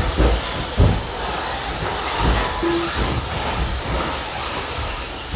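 Brushless electric RC truggies and stadium trucks racing on the track: a steady whirring hiss of motors and tyres, broken by several dull thumps.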